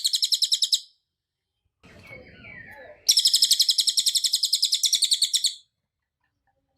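Cililin bird singing: a fast, very high trill of rapidly repeated notes that ends just under a second in, a softer, lower twittering about two seconds in, then a second fast trill of about ten notes a second lasting some two and a half seconds and stopping abruptly.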